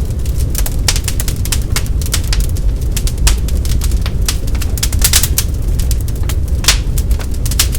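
Wood log fire crackling in a fireplace: irregular snaps and pops, several a second, with a few louder pops, over a steady low rumble of the burning fire.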